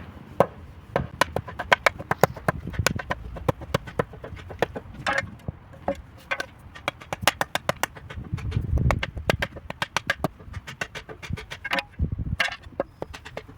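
Steel-handled hammer striking a shovel over and over to knock the broken wooden handle stub out of its metal socket: a fast, irregular run of sharp knocks, some with a short metallic ring, and a duller thud about two-thirds of the way through.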